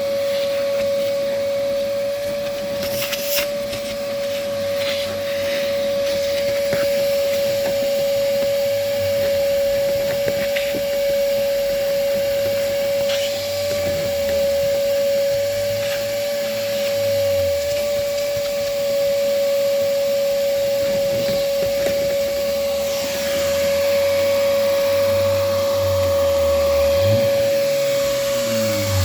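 Vacuum cleaner running steadily with a constant whine while cleaning a car's carpets and interior, with occasional knocks and scrapes of the nozzle.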